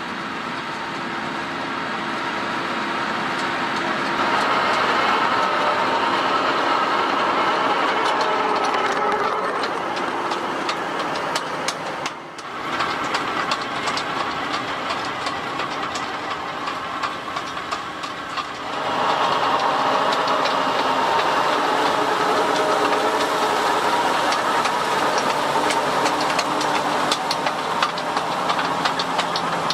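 Fendt 724 Vario tractor engine running under load while ploughing, mixed with a steady fast clicking and rattling from the working plough and front power harrow. The sound dips briefly about twelve seconds in and is louder again from about nineteen seconds in.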